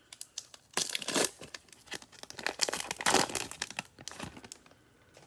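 Cellophane wrapper of a trading card cello pack crinkling and tearing as the pack is opened, in several rustling bursts.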